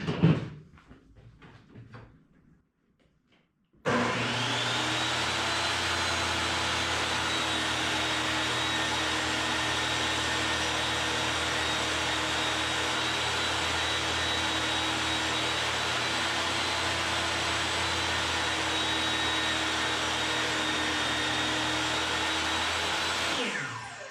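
Electric table saw switched on and running steadily while ripping a board to width: it spins up suddenly about four seconds in, holds an even pitch, and winds down near the end. A few light knocks of handling come just before it starts.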